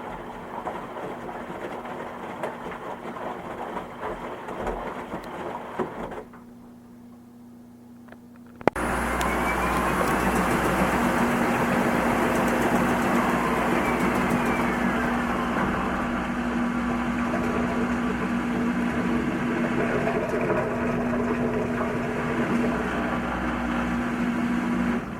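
Washing machine running. After a quieter stretch, a sharp click about nine seconds in, and then the machine starts up loudly with a steady hum and a faint whine that rises and then falls. It drops back down right at the end.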